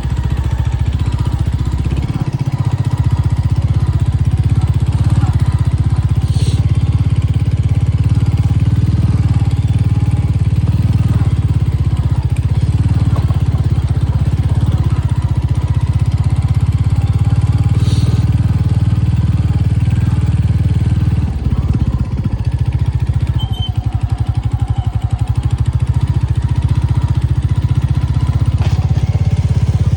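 A motor vehicle running steadily: a continuous low rumble, with two brief sharp clicks about a third and two-thirds of the way through.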